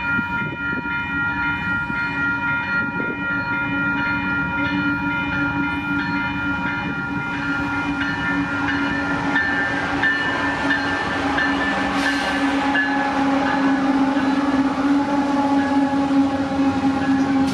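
CPKC mixed freight train rolling past, a continuous rumble of wheels and cars with several steady pitched tones held over it, growing a little louder in the second half.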